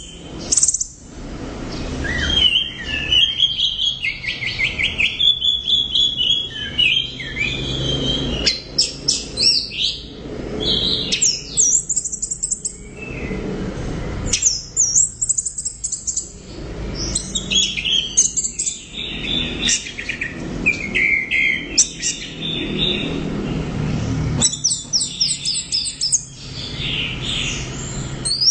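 Orange-headed thrush singing a loud, varied song: quick runs of repeated high notes and warbled phrases, in bursts with short gaps between them.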